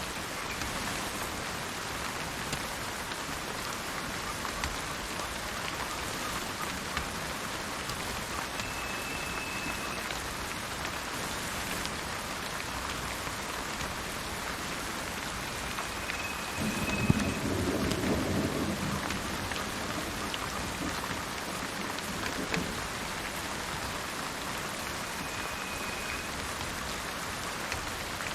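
Steady rain falling, with one low roll of thunder starting with a sharp crack a little past halfway and fading over about two seconds. Three short, high, even-pitched bird calls sound through the rain at widely spaced moments.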